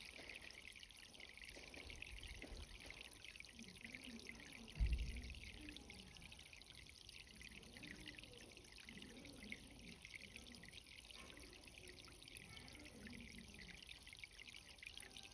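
Irrigation water in a vegetable garden trickling and pouring steadily, faint and even, with a brief low thump about five seconds in.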